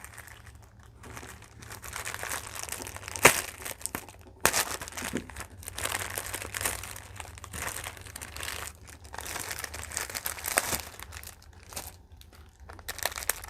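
Plastic packaging crinkling and rustling in irregular bursts as a package is cut open with a knife and handled, with a sharp click about three seconds in.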